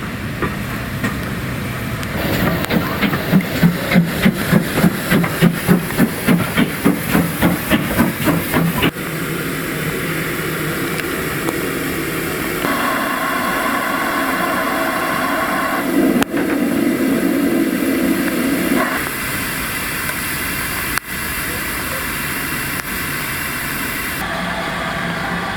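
Steam locomotive working, its exhaust beating regularly at about two to three chuffs a second for several seconds. This gives way abruptly to steadier locomotive engine noise and hiss, with voices.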